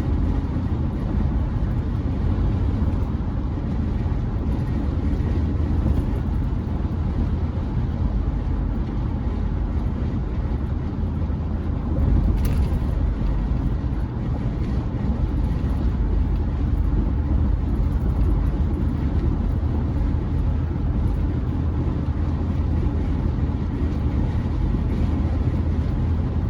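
Steady road and engine noise inside a Chevrolet C10 pickup's cab while driving, deepest in the low end, with a brief louder burst about halfway through.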